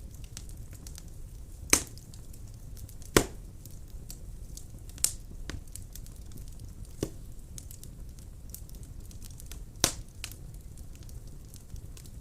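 Wood fire burning in a fireplace: a low steady rumble of flames with scattered crackles and a few sharp pops, the loudest about two, three, five, seven and ten seconds in.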